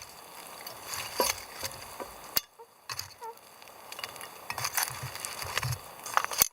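Cooking over a campfire: a utensil stirring and scraping in a pan of frying food, with irregular knocks and clinks.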